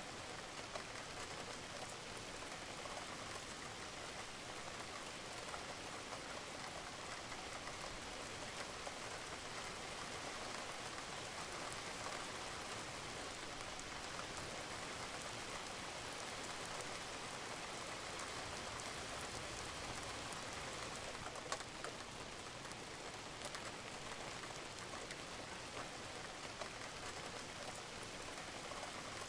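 Steady rain falling on a roof, an even hiss with many small scattered drop ticks and an occasional louder drip.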